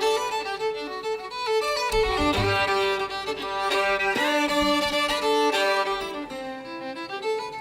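Violin playing a melody of held and moving bowed notes in an instrumental passage of a song.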